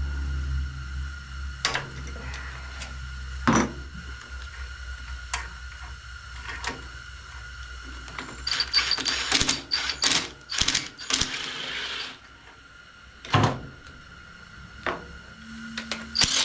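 Metal tools and parts clinking and knocking while a lawn-tractor starter is being unbolted: scattered single clicks, with a busy stretch of rattling in the middle, over a steady background hum.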